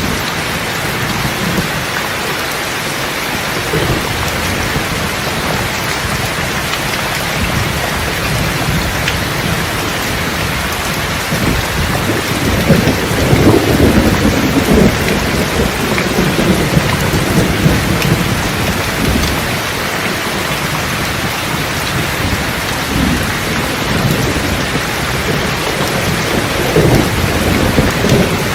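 Steady heavy rain with rolling thunder, a louder rumble swelling about halfway through and another near the end.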